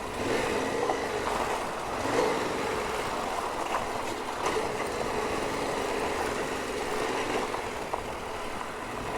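Yamaha Ténéré 700 motorcycle running steadily while riding along a gravel road, engine and road noise heard from the bike.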